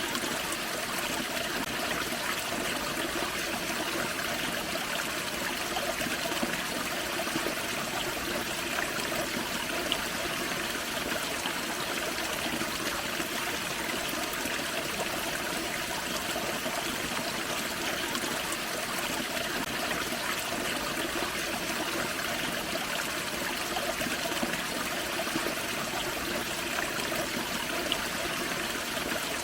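Small forest waterfall and creek: water splashing and trickling over rocks in a steady, even rush.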